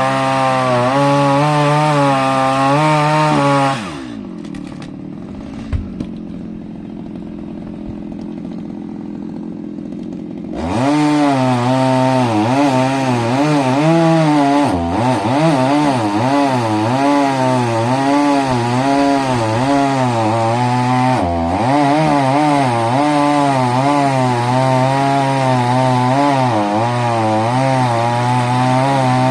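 Two-stroke chainsaw at full throttle, its pitch wavering as it bites into wood. About four seconds in it drops to idle, with a couple of light knocks. Some six seconds later it is revved up again and cuts on, the pitch rising and sagging under load.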